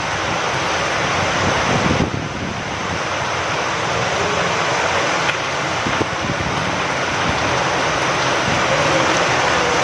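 Steady rain falling outdoors with wind, a dense even hiss with faint scattered drop ticks and a brief swell in loudness about two seconds in.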